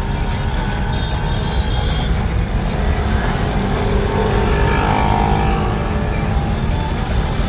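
Car driving along a road: a steady low engine and road rumble.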